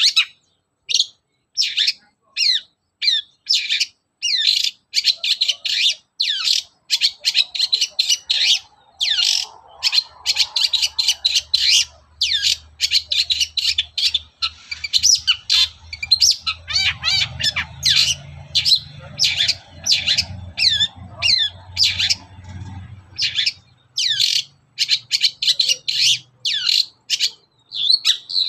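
Long-tailed shrike (cendet) singing a fast, chattering song of short sharp notes and quick downward-sweeping calls, with only brief gaps. A faint low hum runs under the middle stretch.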